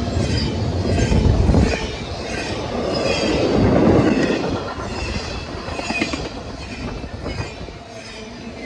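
A train's railroad cars rolling past, steel wheels clattering and rumbling on the rails. It is loudest about a second and a half in and again around four seconds, then eases off.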